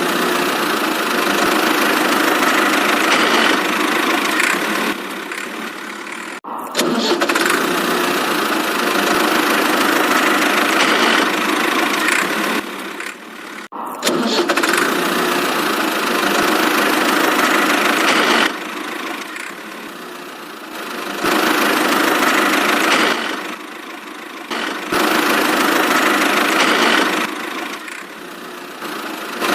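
Engine noise running continuously, swelling and easing in long stretches and breaking off abruptly twice.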